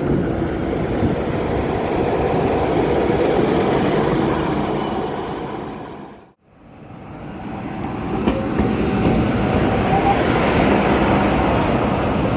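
Heritage railway train running, a steady rumble that fades out to silence about six seconds in and fades straight back in.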